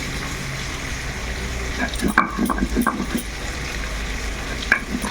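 Chicken and onions frying in a kadai with a steady sizzle, with a few short scrapes of a spatula stirring the meat about two seconds in and again near the end.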